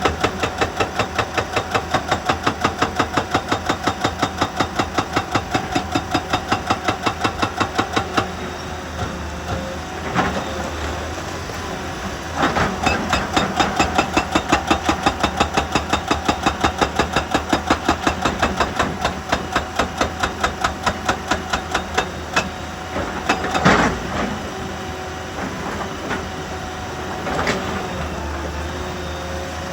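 Heavy quarry machinery breaking rock: a rapid, regular pounding of about five strokes a second that stops about eight seconds in and starts again a few seconds later. Later come a few single heavy knocks, over a steady engine hum.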